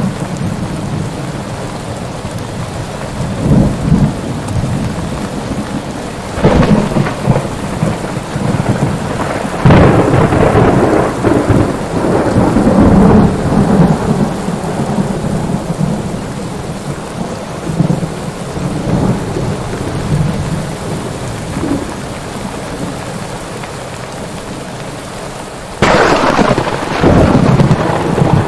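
Steady rain under repeated rolls of thunder. One rumble comes about six seconds in and a longer one follows around ten seconds in. A sharp, loud thunderclap breaks near the end and rolls on.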